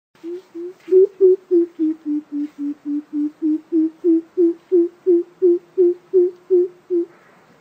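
Greater coucal calling: a long run of about twenty low hollow hoots, roughly three a second. The first couple are quieter, and the pitch sags a little through the middle before rising again.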